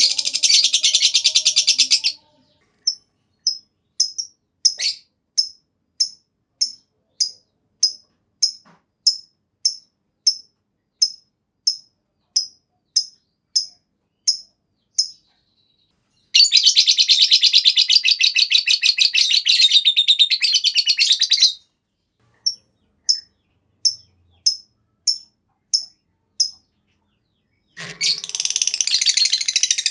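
Lovebird singing: a long, rapid rattling trill (the 'ngekek') at the start, again about halfway through and near the end, with single high chirps repeated about three every two seconds in between.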